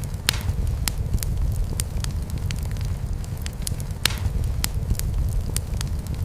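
Wood fire crackling in a fireplace: irregular sharp pops and snaps, about two a second, over a steady low rumble.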